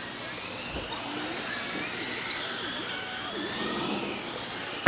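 Several electric RC race trucks running laps together, their motors whining in overlapping tones that rise and fall in pitch as they accelerate down the straights and ease off into the turns. A single sharp knock right at the end.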